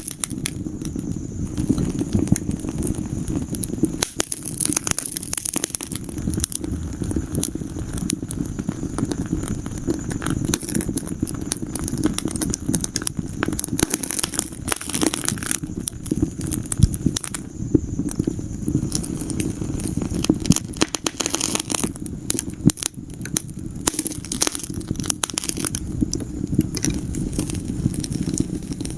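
Wood fire burning in a fireplace, crackling and popping at irregular moments over a steady low rumble.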